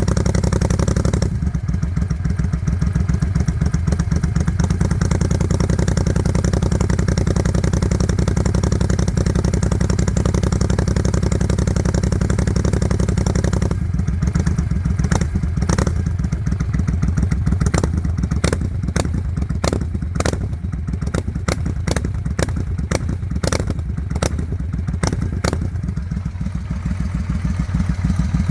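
Suzuki Volusia's V-twin engine idling steadily through a Vance & Hines aftermarket exhaust, with no revving. About halfway through, a run of sharp clicks starts, one or two a second.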